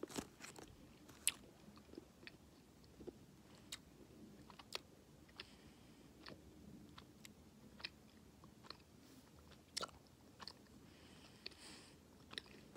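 Faint chewing of Razzles, a hard candy that turns into gum: irregular small crunches and mouth clicks.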